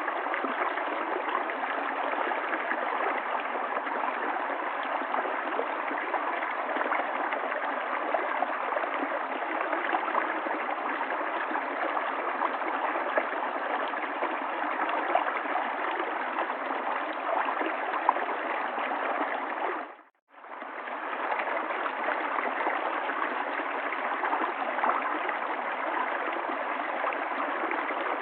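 River water flowing steadily over stones with a babbling, gurgling sound. About two-thirds of the way through it fades out to silence for a moment and quickly fades back in.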